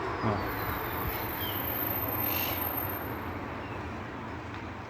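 European goldfinch singing faintly, a few short high chirps and twitters over a steady background hiss.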